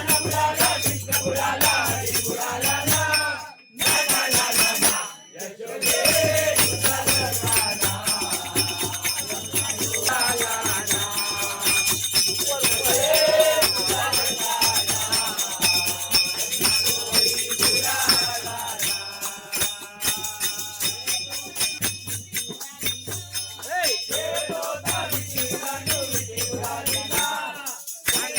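Women singing a devotional bhajan over jingling bells and rattling hand percussion, with two short breaks about four and five seconds in.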